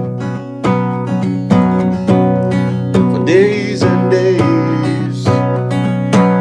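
Acoustic guitar strumming sustained chords in a slow rock ballad, with a singer's voice holding a wavering note around the middle.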